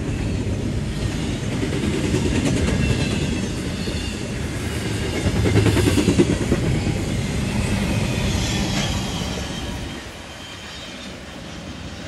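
Double-stack container well cars of a freight train rolling past close by, wheels rumbling and clacking on the rails with a faint high wheel squeal. The sound drops off about ten seconds in as the last cars go by.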